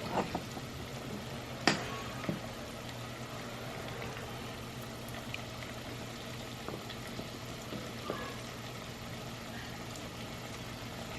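Peeled new potatoes cooking in a pot with a steady, quiet sizzle, with a sharp knock about two seconds in.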